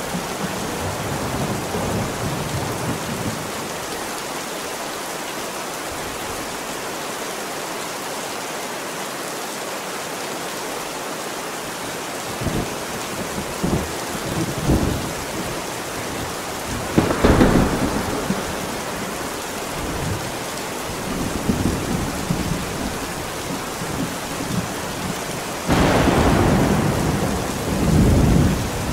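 Heavy rain falling steadily while thunder rumbles. About seventeen seconds in a sharp crack of thunder hits, and near the end a louder clap starts suddenly and rolls on.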